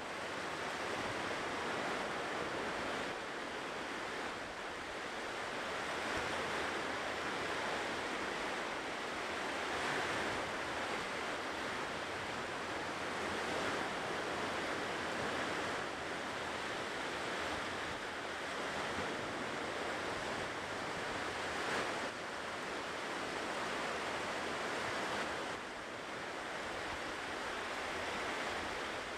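Ocean surf washing onto a shore: a continuous rush of breaking waves that swells and eases gently.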